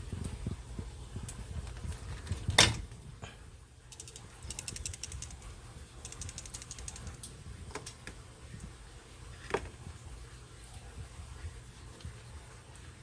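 Small mechanical clicks and rattles from handling hardware: one sharp click about two and a half seconds in, quick ratchet-like runs of clicks a little later, and another click near ten seconds, over a low background rumble.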